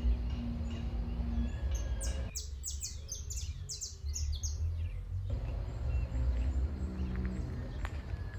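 Birds chirping, with a quick run of high, sharp chirps about two seconds in that lasts roughly three seconds, and a few fainter calls either side, over a low rumble.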